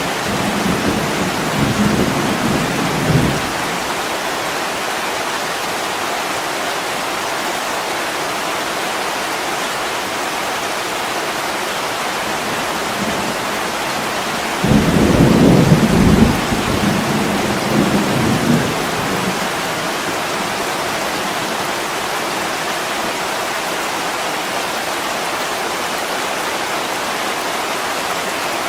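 Steady heavy rain hissing, with rolls of thunder: a low rumble dying away in the first few seconds, and a louder one that breaks in suddenly about halfway and rumbles on for about four seconds.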